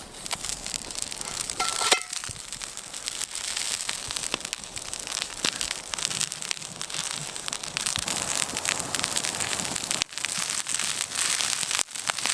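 Campfire crackling: a dense run of snaps and pops over a steady hiss, breaking off sharply twice near the end.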